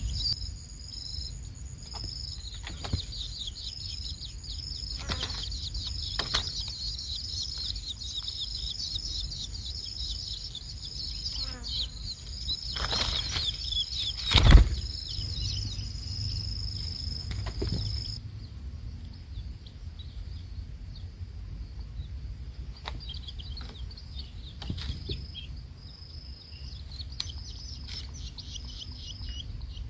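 Young long-tailed shrike chicks chirping in a rapid run of short, high calls, fainter in the second half. Scattered knocks, with one loud knock about halfway through.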